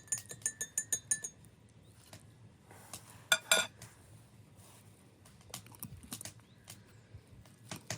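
Cutlery clinking on tableware: a quick run of light clinks with a ringing tone in the first second or so, two louder clinks a little past three seconds in, then scattered soft taps.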